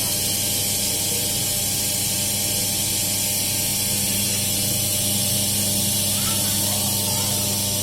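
Cold-press oil press machine running steadily: an even electric motor hum under a constant hiss.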